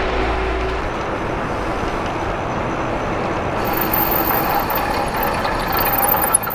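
Front disc brake of an Ariel Rider Rideal e-bike making an ugly rubbing squeal while riding, with high squealing tones joining in about halfway through, over a steady rush of wind and tyre noise. The rider takes it as a sign that the brake needs readjusting.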